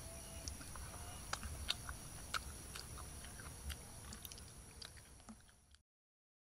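Close-up chewing and biting into grilled chicken wings, with scattered sharp wet clicks and smacks over a low rumble and a steady high-pitched hum. The sound fades and cuts to silence near the end.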